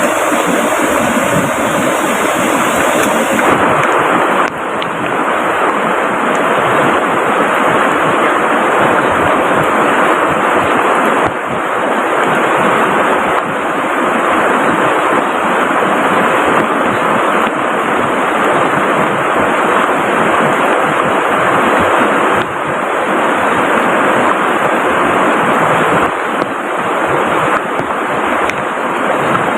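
Loud, steady rushing of water from a river swollen by heavy rain, running close by, with the level dropping briefly a few times.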